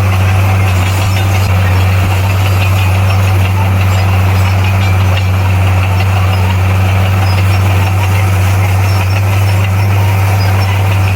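Heavy earthmoving machine's diesel engine running at a steady, unchanging speed, with a deep low hum.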